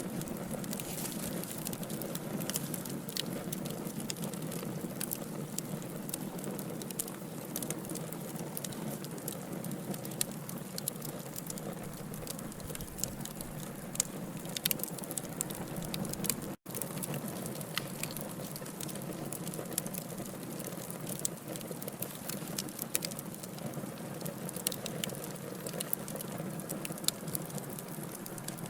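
Wood logs burning in a fireplace: a steady low hiss and rustle of the flames with frequent sharp crackles and pops. The sound cuts out for an instant about halfway through.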